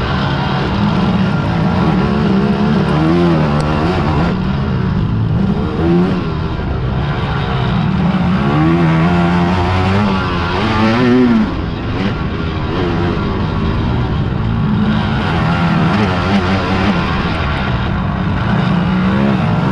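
Several big-bore quad (ATV) engines racing, running together with their pitch rising and falling as the riders throttle on and off.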